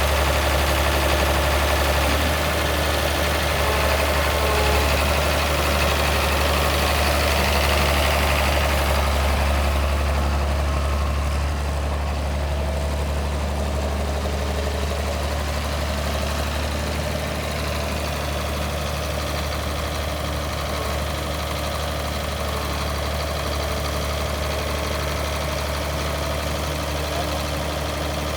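1978 International 656 utility tractor's diesel engine idling steadily. About ten seconds in the sound gets a little quieter and loses some of its high end.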